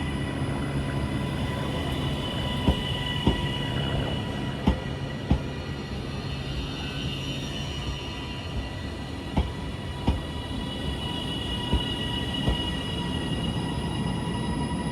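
A train moving slowly on the rails with a steady hum. Its wheels knock in pairs every couple of seconds, as the wheelsets of each bogie cross rail joints or points.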